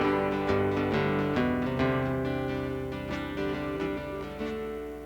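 Acoustic guitar playing an instrumental passage between sung lines, chords ringing and changing, gradually getting a little softer towards the end.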